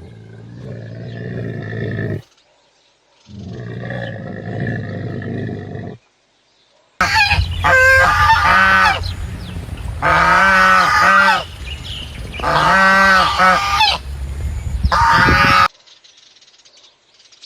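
Geese honking loudly in repeated rapid series of calls, in four bursts. Before them come two low, rough calls of a few seconds each from an animal that cannot be identified.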